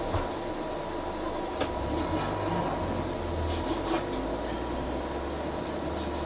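Geeetech A20 3D printer powered on, its fans running in a steady drone with a thin constant whine, and a few light clicks.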